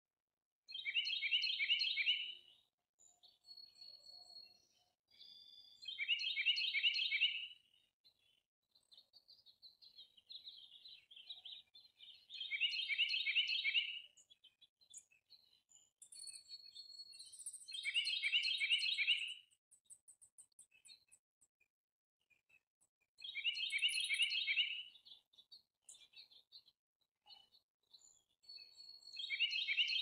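A songbird singing the same short song over and over: a quick burst of rapid repeated notes about a second and a half long, six times, roughly every five to six seconds. Fainter chirps from other birds fill the gaps, and a thin, very high, rapid series of notes comes about halfway through.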